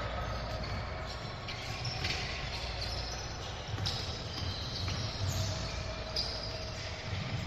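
Basketball game play: a basketball bouncing on the court, with short high squeaks of sneakers on the floor.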